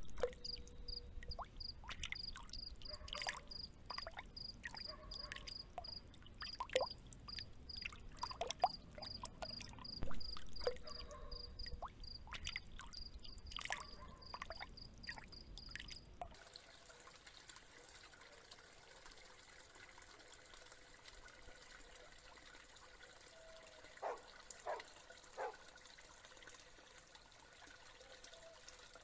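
Field cricket chirping steadily at about three chirps a second over trickling pond water with small drips and splashes. About sixteen seconds in the chirping and the low water rush stop abruptly, leaving a faint steady trickle with a few drips.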